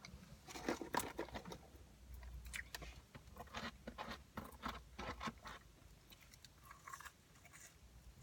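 A person chewing fast food close to the microphone: a run of crisp crunches and wet mouth clicks for the first five seconds or so, then quieter chewing.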